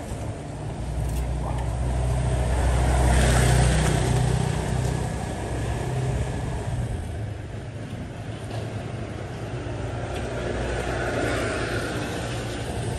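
Road traffic: a motor vehicle's low rumble that swells as it passes close, loudest about three to four seconds in, then fades back into steady traffic noise.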